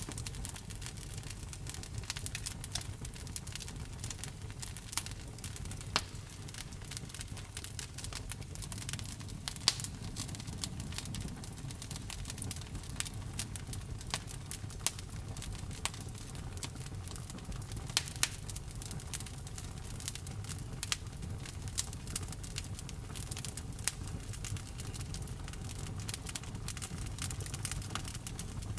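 Wood burning in a bonfire, crackling with frequent irregular pops and snaps over a low steady rumble. A few pops stand out louder, about ten seconds in and again around eighteen seconds.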